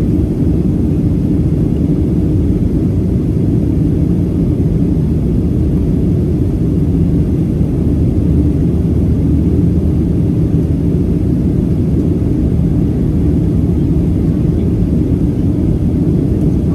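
Steady low drone of engine and airflow noise inside the cabin of a Boeing 737-700 airliner in flight.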